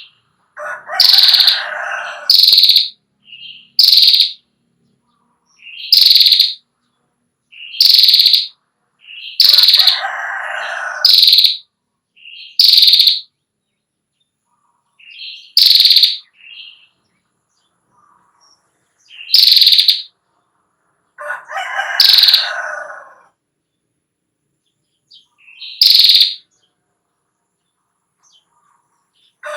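Female prinia (prenjak) calling: short, sharp, high chirps every second or two, three times joined by a lower, buzzy rattle lasting about two seconds, the long 'ngetir' call.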